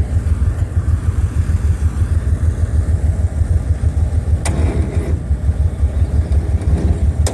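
Engine running with a steady, fast-pulsing low rumble, with a sharp click about four and a half seconds in and another near the end.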